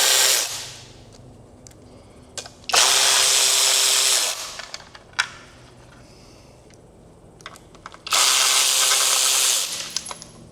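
A cordless power tool with a socket on it spinning valve-cover bolts out of a 327 small-block Chevy's cylinder head, in short runs of about a second and a half each: one ending about half a second in, another about three seconds in, and a third near the end. Small metallic clicks of bolts and sockets come in between.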